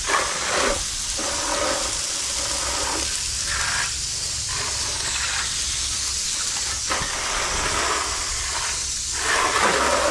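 Water jet spraying onto a dirt bike during washing: a steady hiss whose tone shifts as the spray moves over different parts, cutting off just at the end.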